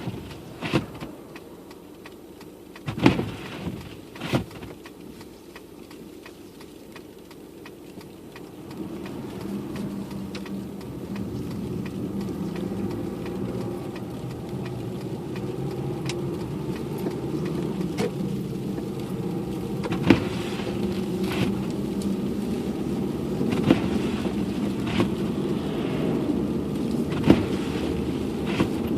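Car driving on a snowy road: a few sharp knocks in the first few seconds, then engine and tyre noise that grows louder from about eight seconds in and stays steady, with occasional clicks.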